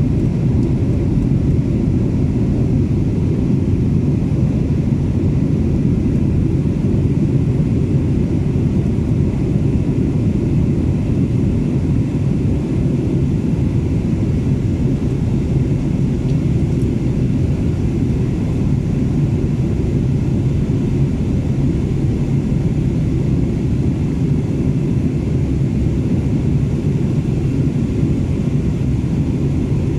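Steady low drone of an Airbus A330 airliner in flight, heard inside the passenger cabin: engine and airflow noise, unchanging throughout.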